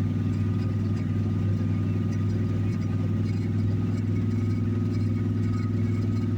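1986 Dodge D-150 pickup's carbureted engine idling steadily just after a cold start without a choke, still warming up.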